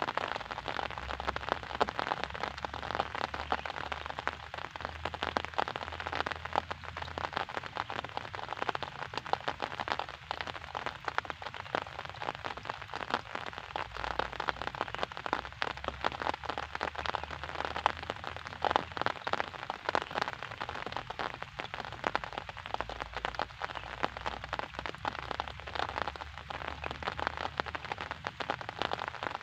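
Steady rain falling, a dense hiss of many individual drops ticking.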